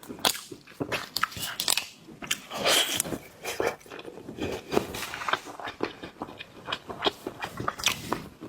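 Close-miked eating sounds of lobster: shell cracking, biting and chewing, a quick irregular run of sharp cracks and crunches.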